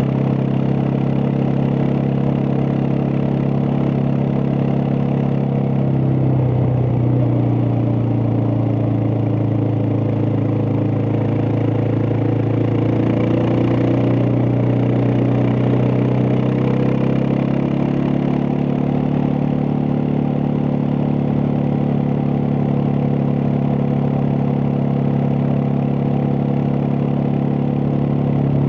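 Suzuki DR650's single-cylinder four-stroke engine running steadily while riding. Its pitch dips a little about six seconds in and rises again around eighteen seconds.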